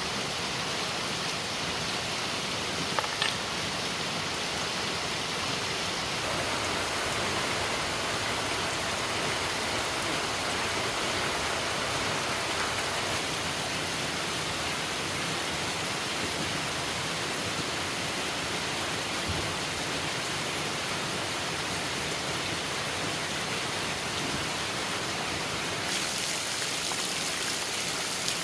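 A steady, even hiss of noise with two sharp clicks about three seconds in.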